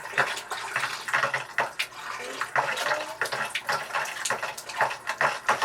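A bathroom sink tap running unevenly, the water sputtering and surging in irregular spurts as it struggles through the boat's pipes.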